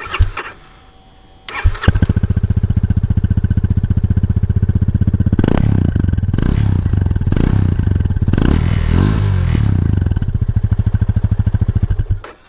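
Yamaha FZ25's 249 cc single-cylinder engine started about a second and a half in, after a short burst right at the start. It idles with an even beat, is revved several times in the middle, then is switched off near the end, showing off the exhaust note.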